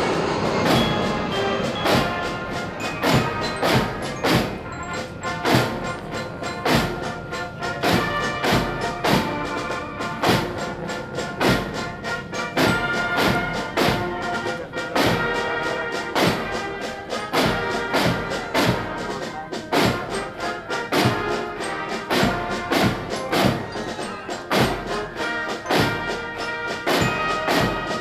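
Brass band playing a march, with regular bass drum beats under sustained brass notes. A rushing noise fades out in the first second.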